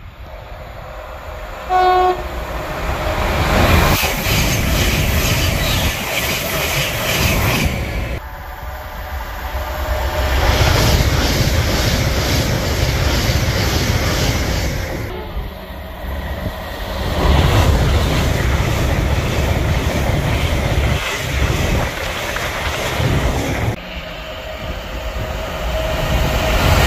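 Electric multiple-unit trains passing through a station at speed: loud rushing wheel and rail noise with rhythmic clatter as the bogies cross rail joints, broken into several passes by abrupt cuts about 8, 15 and 24 seconds in. A short train horn blast sounds about 2 seconds in.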